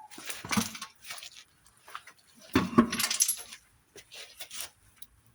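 Metal tools and engine parts clinking and clattering as they are handled during an engine teardown, in a few separate bursts with the loudest about three seconds in.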